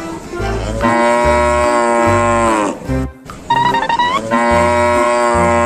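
Two long cow moos, each dropping in pitch at the end, with a short higher call between them, over background music with a steady bass beat.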